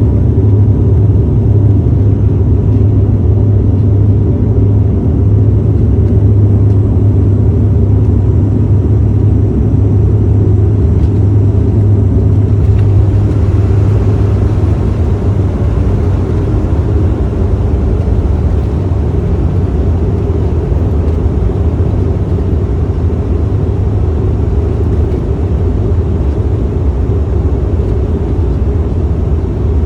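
Loud, steady, low rumble of an aircraft in a strong-wind landing, with a hissing rush that rises about thirteen seconds in.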